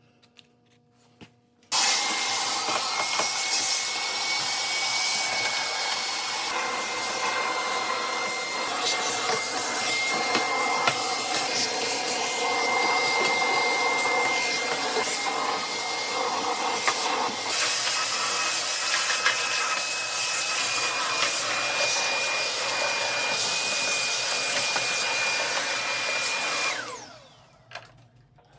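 Milwaukee M18BLCV2 cordless vacuum switched on and running steadily on workshop sawdust: a rush of air with a high motor whine. The whine steps up slightly about two-thirds of the way through. Near the end it is switched off and the motor's whine falls as it spins down.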